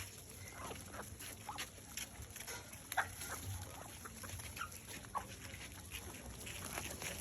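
Birds making short, scattered calls, one every second or so.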